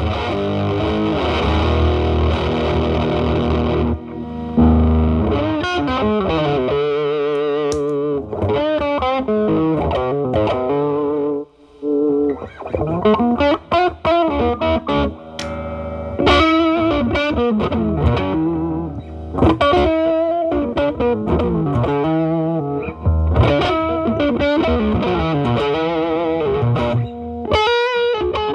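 Gibson SG humbucker guitar played through stacked MXR Distortion+ pedals into a Marshall Valvestate amp's drive channel. For about the first four seconds it plays thick, sustained distorted chords with the boost stacked. After that it plays cleaner, lower-gain lead lines with string bends and vibrato.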